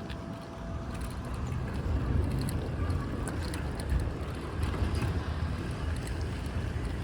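Wind buffeting the microphone during a bicycle ride: a steady low rumble of wind and road noise, with scattered small clicks and rattles.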